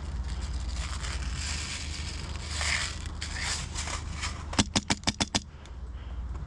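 Scraping and rustling of gear and movement, then about four and a half seconds in, a rapid string of about seven sharp shots from an HPA airsoft rifle in under a second.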